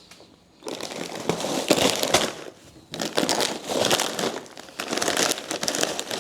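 Plastic snack packets crinkling and rustling as they are handled, in two long stretches with a short pause a little before halfway.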